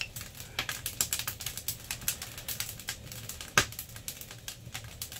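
Firewood crackling as it burns in a large wood stove: irregular sharp snaps and pops, with one louder pop about three and a half seconds in.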